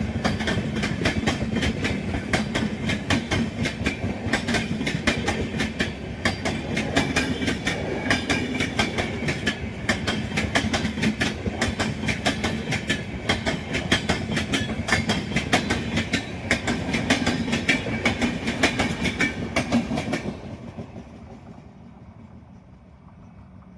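A train passing close by, its wheels clattering rapidly and steadily over the rail joints. About twenty seconds in the clatter fades out quickly as the last car goes by, leaving a much quieter rumble.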